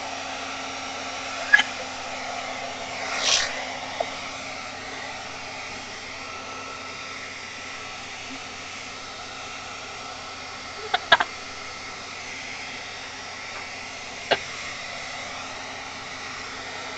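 Handheld hair dryer running steadily, blowing with a constant rushing hiss and a faint hum. A few brief clicks or knocks stand out over it.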